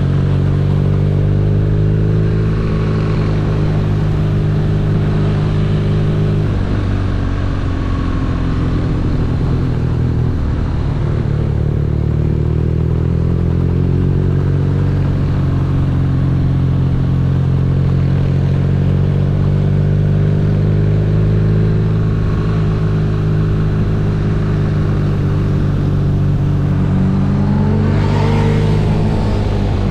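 BMW R nineT motorcycle's boxer-twin engine running on the move, its pitch shifting a few times as the rider changes speed, then rising near the end as it revs up.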